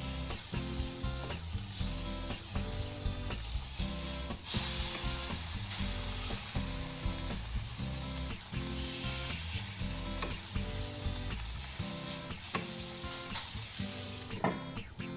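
Flour-coated liver frying in butter in a pan, with a steady sizzle that swells louder about four seconds in and again about nine seconds in as the pieces are turned. Background music with a steady beat plays throughout.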